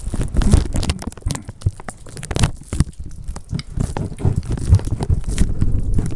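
Gusting wind buffeting the microphone: an uneven low rumble with many sharp crackling clicks.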